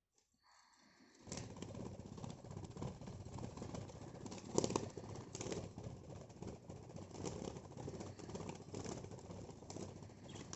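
Pet budgerigars flapping their wings in the cage: a dense fluttering that starts suddenly about a second in, with repeated louder flurries.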